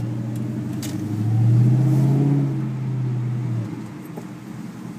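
2002 Mustang GT's 4.6-litre V8 heard from inside the cabin under acceleration: the engine note swells and rises slightly about a second in, holds, then falls away a little before four seconds.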